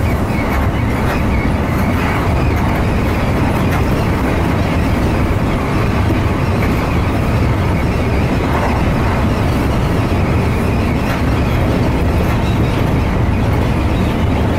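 Seibu Shinjuku Line electric commuter train running steadily along the line. It is heard from behind the driver's cab as a continuous, even rumble of wheels on the track.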